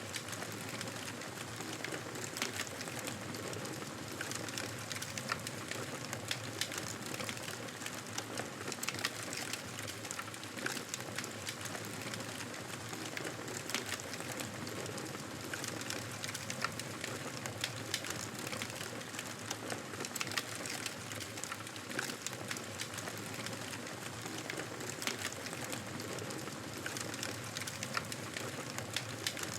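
Campfire burning, a steady hiss with frequent, irregular crackles and small pops from the burning wood.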